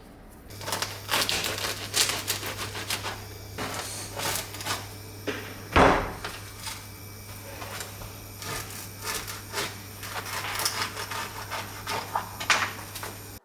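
Busy clicks, taps and knocks of objects being handled, over a steady low hum that starts about half a second in, with one loud thump about six seconds in.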